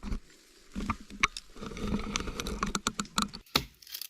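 An irregular series of sharp clicks and light knocks, a dozen or so, with a denser rustling stretch in the middle.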